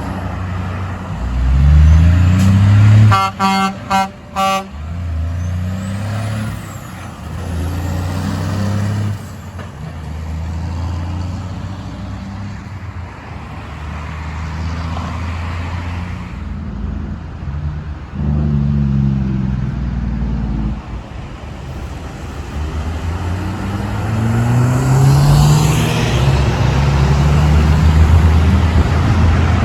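Heavy trucks' diesel engines accelerating, their pitch rising and dropping back several times as they pull through the gears. About three seconds in, a truck air horn sounds in a quick string of short blasts.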